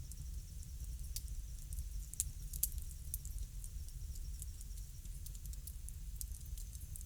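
Wood fire crackling: frequent small sharp pops and snaps at irregular intervals over a steady low rumble.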